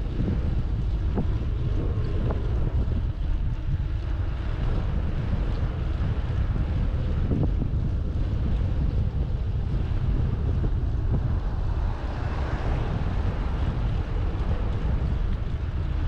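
Wind buffeting the microphone of a moving bicycle: a steady low rumble, with a slightly brighter hiss about twelve seconds in.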